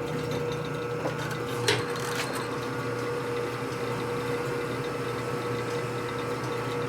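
A machine tool's motor running steadily with a constant hum while a 1/4-inch drill bit cuts a hole through the center of a nut; two sharp clicks come about two seconds in.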